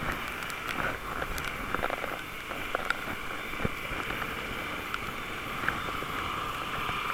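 Riding noise of a bicycle on the move, picked up through a camera's waterproof case: a steady muffled rush with scattered small clicks and rattles.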